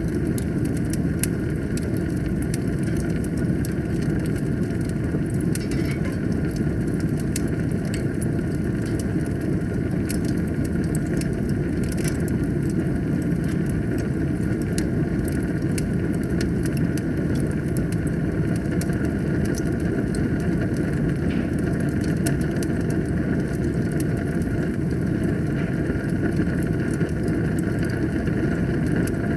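Fire burning in a fireplace: a steady low rush of flames with frequent small crackles and pops.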